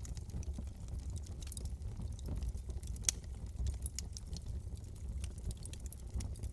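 Wood fire burning in a fireplace: a steady low rumble of flames with scattered crackles and pops, one louder snap about three seconds in.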